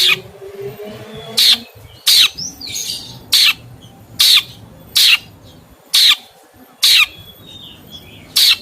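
A bird repeating a short, harsh call about once a second, nine times, with faint twittering from a bird between the calls.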